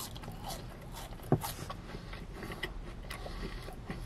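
A person chewing French fries close to the microphone: soft, scattered mouth clicks and smacks, with one sharper click about a second and a half in.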